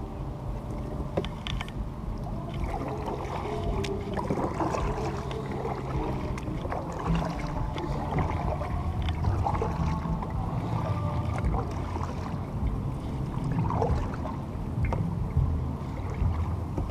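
Paddling an Oru folding kayak: paddle strokes dipping and splashing in the water, with small knocks and water moving along the hull.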